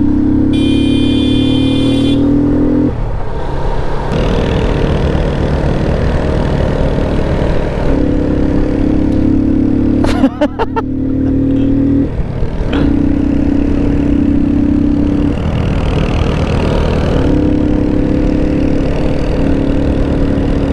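Motorcycle engine running while riding, a steady drone with short dips around three and twelve seconds in. A brief high-pitched tone sounds about half a second in and lasts about a second and a half.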